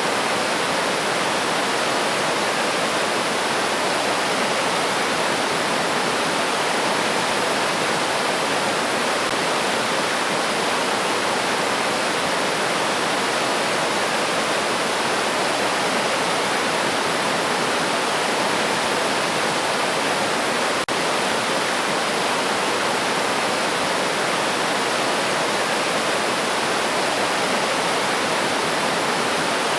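River stream water rushing steadily, an even unbroken wash with no birdsong standing out, and one brief click about two-thirds of the way through.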